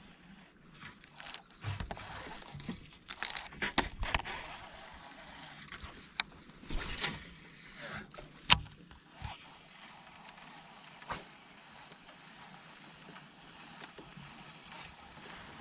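Scattered clicks, knocks and rattles of fishing gear being handled in a kayak, loudest as one sharp click about eight and a half seconds in, then fading to a faint hiss.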